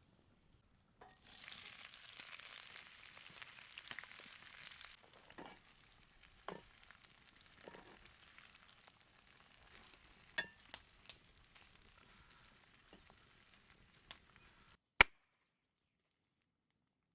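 Ossobuco sizzling in a cast-iron pan over a campfire for a few seconds, then quieter cooking with scattered clicks and knocks. A sharp click near the end is the loudest sound.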